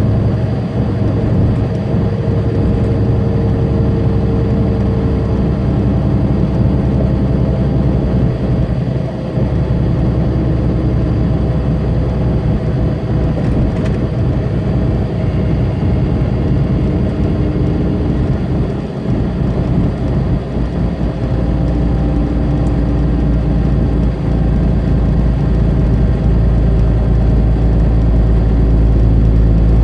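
Tractor-trailer's diesel engine running steadily with road noise, heard from inside the cab. It dips briefly twice and swells louder over the last few seconds.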